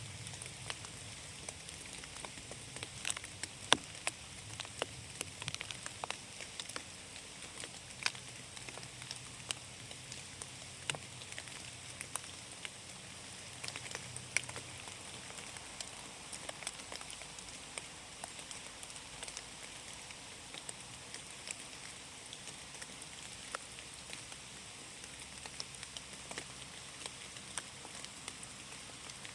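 Steady rain in a forest: a soft even hiss of rainfall with many scattered, sharper individual raindrop ticks, one louder drop just under four seconds in.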